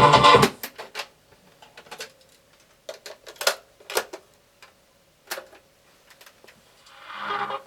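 Music playing from the cassette cuts off about half a second in. It is followed by a scattered series of sharp clicks and knocks over several seconds, and a short pitched sound near the end.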